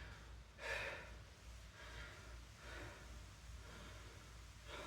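A man breathing hard to catch his breath after an exercise set. There is a strong exhale about half a second in, then softer breaths roughly once a second.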